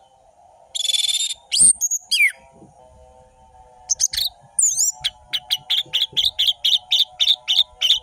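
Orange-headed thrush (anis merah) singing. A harsh rasping note comes about a second in, followed by steeply falling whistles. From about the middle it goes into a fast run of short sharp repeated notes, about four a second.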